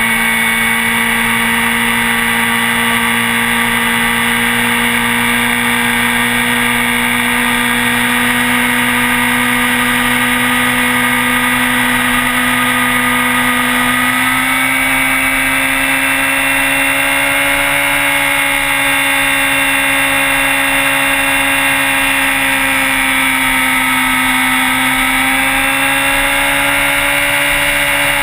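Motorcycle engine running at a fairly steady speed, its pitch rising a little about halfway through, dipping, then rising again.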